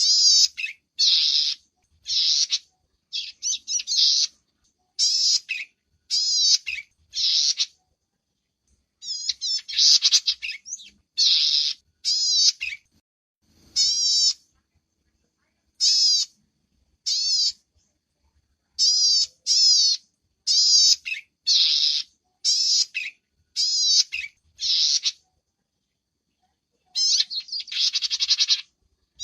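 Small songbird singing short, high, rapid chirping phrases of about half a second each, repeated with brief pauses, with a longer gap of about two seconds near the end.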